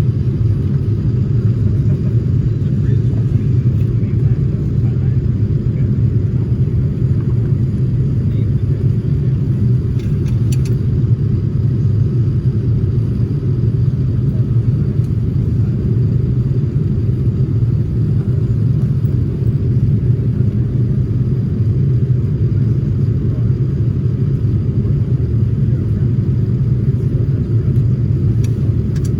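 Airliner cabin noise in flight: a steady low rumble of engines and airflow, unchanging throughout.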